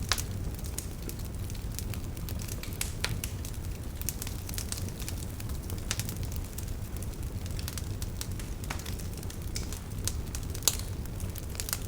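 Campfire crackling, with irregular sharp pops and snaps over a steady low wash of flowing river water; one louder pop near the end.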